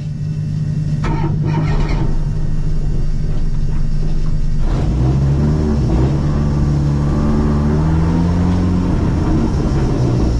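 Fiat Uno race car's engine running at the start line, heard from inside the cabin: steady at first, then from about five seconds in revved up and held at raised revs, its pitch stepping up and down.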